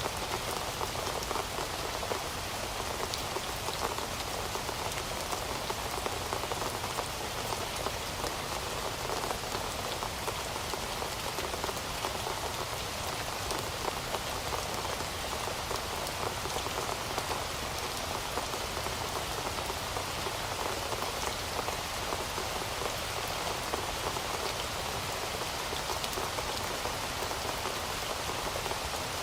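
Heavy rain falling steadily, a dense even patter of drops striking a surface with no thunder.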